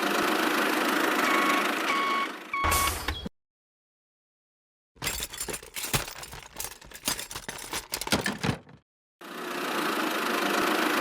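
Small electric motor of a DIY mini tractor running with a steady whir and a few short beeps, cut off suddenly. After a gap of silence comes a stretch of irregular clattering and rattling, then the motor whir starts again near the end.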